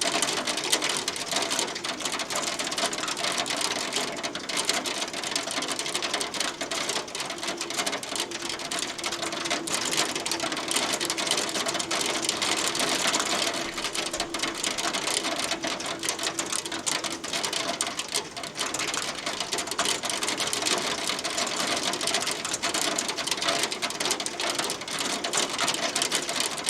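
Hail falling steadily: a dense, rapid ticking and clatter of hailstones striking a hard surface, with no letup.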